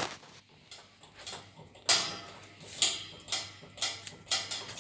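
Air Fusion electric fan making an abnormal clicking noise: sharp ticks or knocks at uneven spacing, roughly one every half second, the loudest about two seconds in, over a faint low hum.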